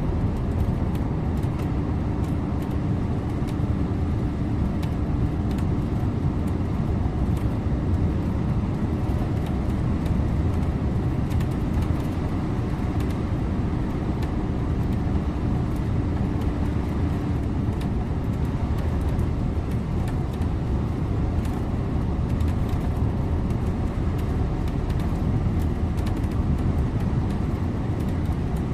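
Scania InterLink bus driving along, heard from the driver's seat: a steady engine drone and tyre noise, with a mid-pitched hum that fades out about two-thirds of the way through and faint rattles now and then.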